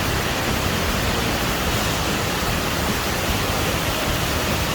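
Waterfall with a loud, steady rush of falling water.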